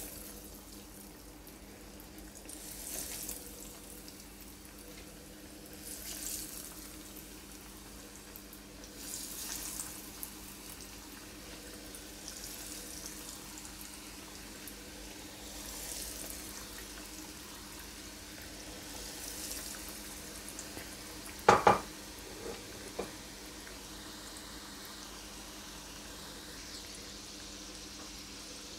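Breaded chicken nuggets sizzling as they shallow-fry in hot oil in a nonstick pan. The sizzle swells every three seconds or so as each new piece is laid in. About two thirds of the way through there is one sharp knock, followed by two faint ones.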